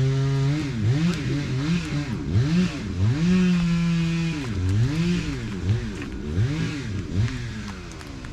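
An engine holds a steady idle, then about a second in it is revved up and down over and over, roughly twice a second, easing off near the end.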